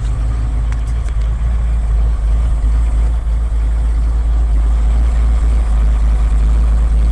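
1980 Ford F100's 302 V8 with a two-barrel carburetor idling steadily, a strong low rumble.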